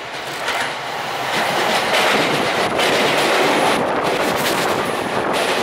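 A Sotetsu 10000-series electric commuter train running past close by, growing louder over the first two seconds as it arrives. The wheels click in a repeated clickety-clack over the rail joints.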